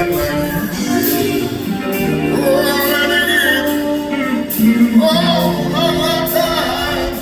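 Live soul ballad from a band, with a singer holding long, wavering notes that carry no clear words.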